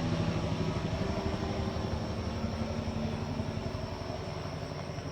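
Bell 206 LongRanger helicopter passing overhead and moving away: its rotor beat and turbine engine fade steadily.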